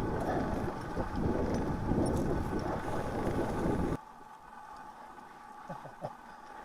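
Wind buffeting the microphone and the rush of a mountain bike being ridden fast, which cuts off suddenly about four seconds in. After that there is a quiet background with a few faint knocks.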